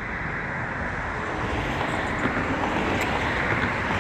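Steady rumbling vehicle noise with wind on the microphone, growing slightly louder.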